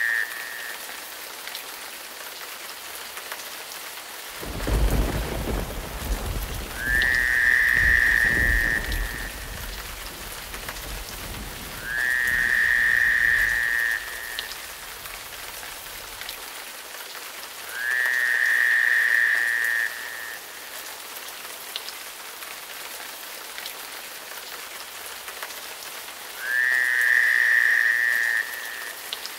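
Steady rain with a roll of thunder starting about four seconds in and fading away over some ten seconds, and a frog's high call, lasting a second or two, repeating about every five seconds.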